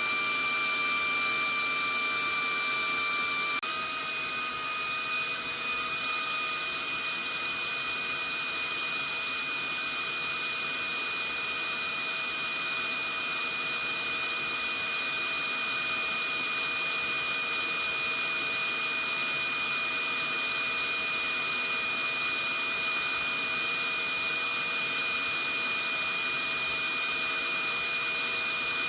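Vacuum cleaner motor running steadily: a continuous rushing noise with a high-pitched whine. A few seconds in, the pitch shifts slightly and it gets a little louder, then settles back to an even level.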